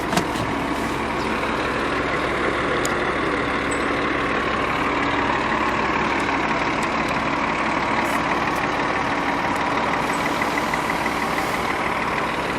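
Nissan Juke Nismo's 1.6-litre turbocharged engine idling steadily.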